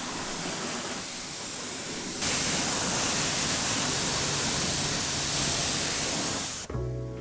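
High-pressure water spray hissing steadily, getting louder and brighter about two seconds in. It stops abruptly near the end, where music begins.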